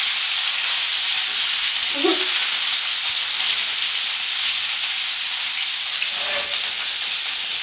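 Chicken pieces frying in hot oil in a pan, a steady sizzle with crackling spatter.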